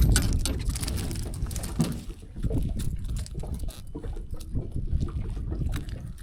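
Water lapping and slapping against a boat hull, with a low wind rumble on the microphone and scattered small knocks and clicks.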